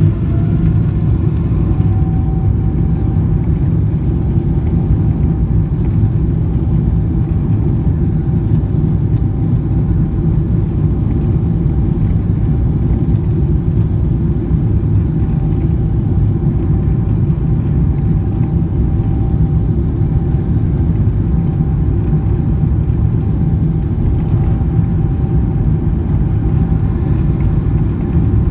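Jet engines of a Boeing 777-300 airliner: a loud, steady low rumble with a faint high whine that rises in pitch over the first couple of seconds, then holds steady.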